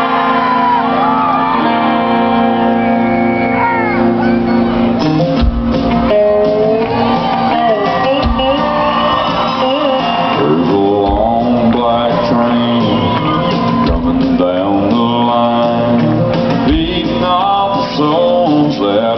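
Live country band playing through a PA in a hall. It opens on held chords, drums come in about five seconds in, and voices shout over the music.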